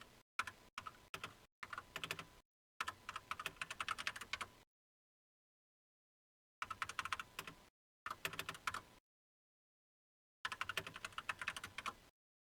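Computer keyboard typing in quick runs of keystrokes: several bursts, the longest nearly two seconds, with pauses of a second or two between them.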